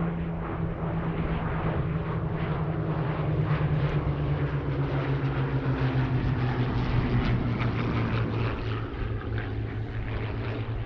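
A pair of Hawker Hurricanes' Rolls-Royce Merlin V12 engines running as the fighters fly past. The engine note falls slowly in pitch through the pass, and the sound grows louder over the first few seconds.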